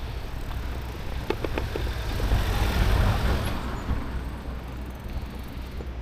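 A motor vehicle passing close by in traffic, growing louder to a peak about halfway through and then fading away, over a steady low rumble.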